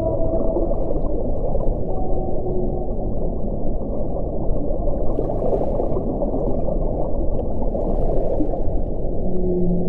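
Wind blowing in a steady low rush, with faint held tones that come and go; a lower held tone comes in near the end.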